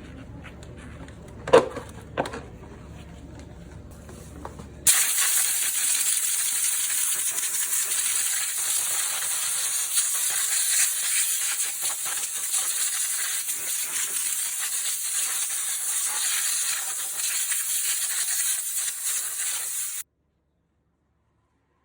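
Two sharp clicks over a low hum, then a high-pressure jet starts abruptly about five seconds in with a loud, steady hiss and cuts off suddenly near the end.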